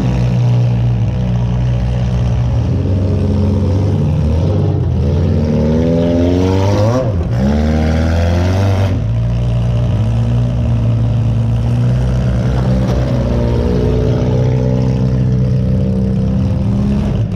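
Demolition derby car's engine running steadily, revved up in a rising sweep and let back down about five to nine seconds in.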